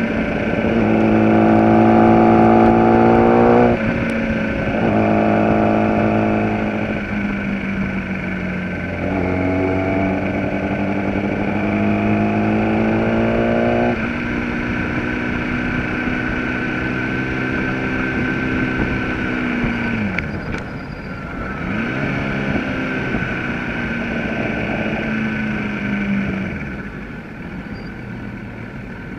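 Gen4 Kawasaki ZX-10R's inline-four engine at high revs on track, pulling hard with the pitch climbing and dipping at each upshift over steady wind noise. About two-thirds of the way in the engine note drops sharply as the bike brakes and comes down through the gears, then climbs again before falling off near the end.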